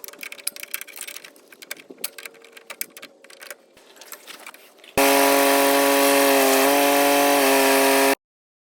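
Light clicks and clatter of tools on metal fittings. About five seconds in, a loud, steady engine sound starts suddenly, drops slightly in pitch twice, and cuts off abruptly about three seconds later.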